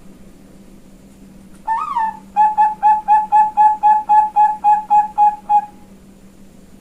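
Female zebra dove (perkutut bangkok) singing one phrase: a rising-then-falling opening note about two seconds in, then a quick run of about thirteen short coos, roughly four a second, which stops near six seconds. A faint steady hum lies underneath.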